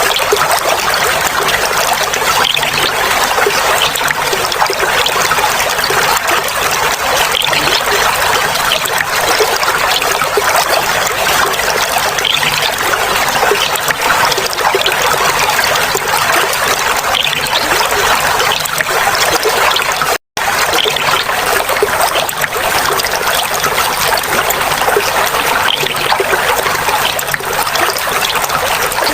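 Clear running water trickling and babbling steadily. The sound drops out completely for a split second about two-thirds of the way through.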